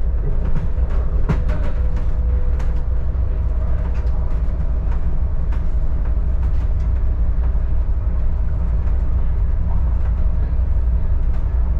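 Adelaide Metro diesel railcar running along the track, heard from on board: a steady low rumble with a faint constant hum and scattered clicks and knocks, most frequent in the first few seconds.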